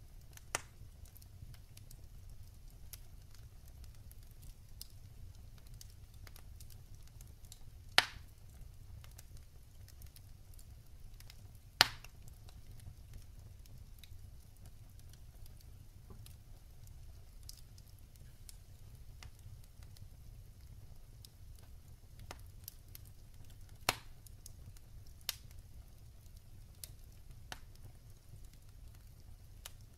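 Wood fire burning in a fireplace: logs crackling with scattered sharp pops over a steady low rumble, the two loudest pops about eight and twelve seconds in.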